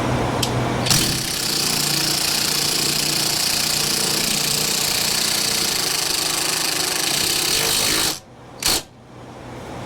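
Small impact wrench running a nut up onto a shock mount, hammering steadily for about seven seconds, then stopping abruptly, followed by one short burst.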